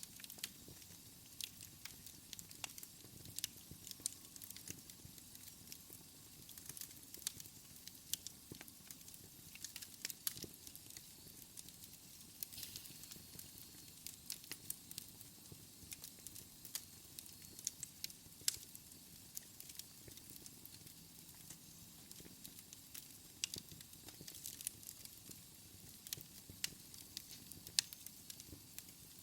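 Fire crackling in a fireplace: irregular sharp pops and snaps, several a second at times, over a faint steady hiss.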